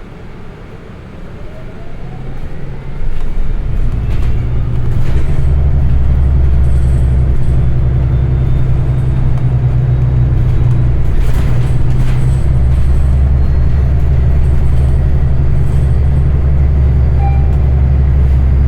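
Transit bus engine heard from inside the passenger cabin. It builds up sharply about three seconds in to a loud, steady low drone as the bus accelerates.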